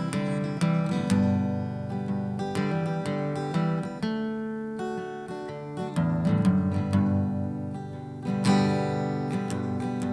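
Acoustic guitar strummed in chords, an instrumental passage of a song with no singing.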